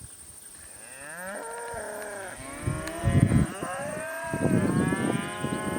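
Cattle mooing: two long, drawn-out moos, the second starting about two and a half seconds in and louder than the first.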